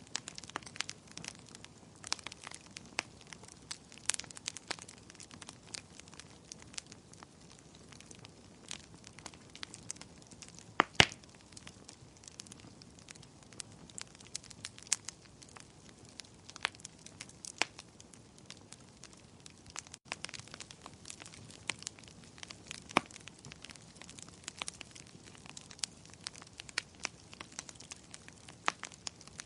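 Fire in a fireplace crackling, with irregular sharp pops over a soft steady bed, one pop about eleven seconds in much louder than the rest.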